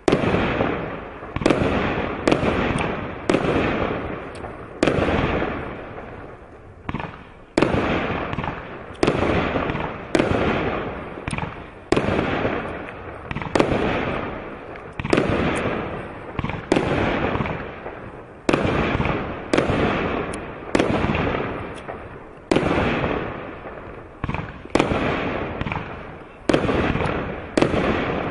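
A 188-shot automatic firework cake firing shot after shot, about one sharp report a second, each bang followed by a fading tail before the next.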